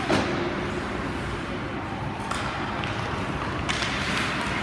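Ice hockey play in an indoor rink: a steady wash of skating and arena noise, with a few sharp knocks about two and a half and four seconds in.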